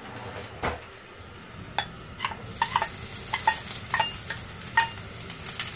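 Grated ginger tipped from a ladle into hot oil in a nonstick frying pan. A sizzle starts about two and a half seconds in, with a run of sharp taps as the ladle knocks against the pan to scrape the ginger off.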